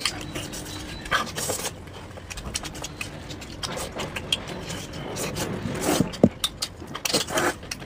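A person chewing meat, likely a chicken leg, with irregular wet smacks and clicks of eating.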